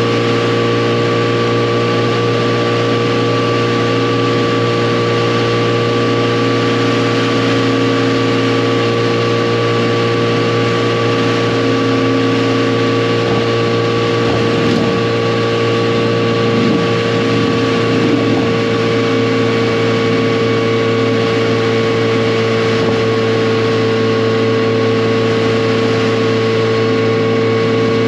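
Yamaha FJR1300's inline-four engine running steadily at cruising speed, its pitch holding constant apart from a brief waver about halfway through.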